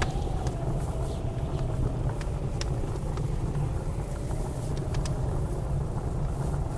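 Wood fire crackling with scattered sharp pops, over the steady low rumble of blizzard wind with a faint wavering whistle.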